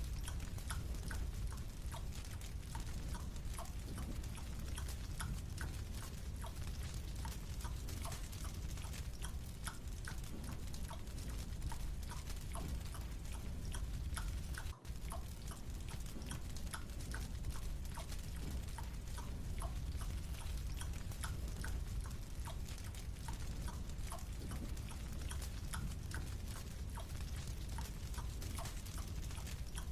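Marshmallow being chewed and nibbled: a steady stream of small, quick clicking sounds over a constant low hum, with a momentary dropout about halfway through.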